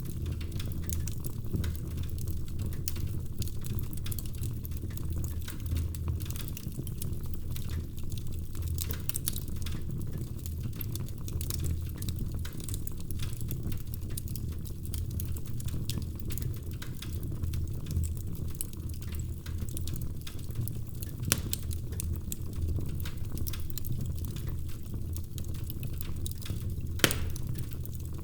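Wood fire burning in a fireplace: a steady low rumble of flames with continual small crackles, and two sharper pops in the last third.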